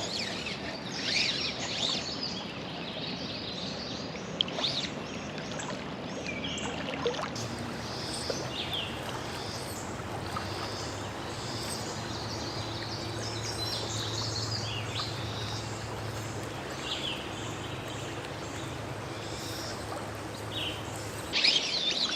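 Steady rush of flowing creek water with songbirds chirping on and off throughout. A low steady hum joins in from about a third of the way in until near the end.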